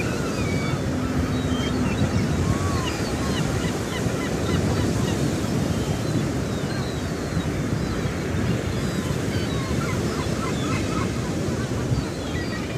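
Many budgerigars chattering: a steady stream of short, quick chirps and warbles over a loud, steady rumble of wind noise.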